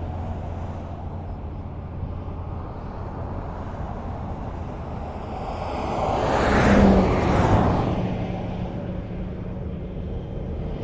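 Highway traffic: a steady rumble of road noise, with one vehicle passing close by about two-thirds of the way through, its tyre and engine noise swelling and then fading away.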